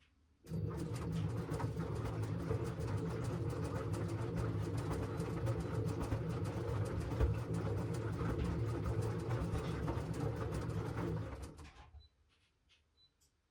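LG washing machine drum turning during a wash cycle: a steady low hum with a dense patter of fine rattles. It starts abruptly about half a second in, runs for about eleven seconds, then winds down and stops near the end, the drum pausing between turns.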